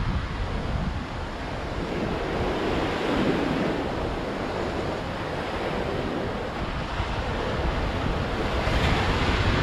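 Ocean waves breaking and washing in a continuous surf that swells and ebbs, with low gusts of wind on the microphone near the start and near the end.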